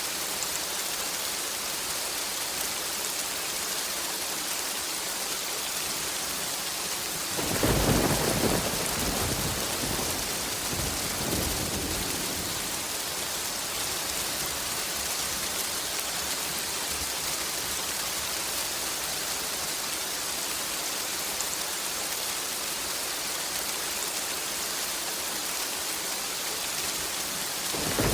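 Steady rain with a thunderclap about seven seconds in, its low rumble dying away over several seconds; another roll of thunder begins near the end.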